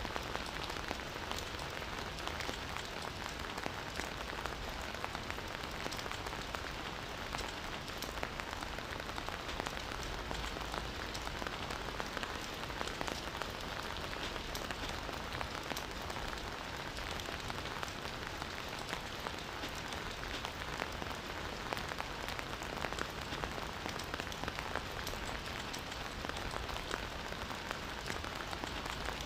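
Steady rain falling in a forest, a dense patter of many small drop impacts.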